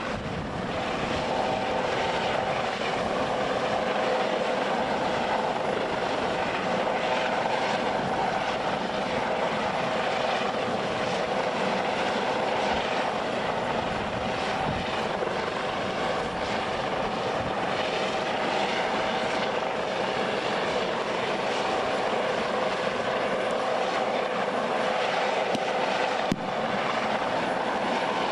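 Aircraft engine running steadily, with a constant whine over a rushing wash of engine noise.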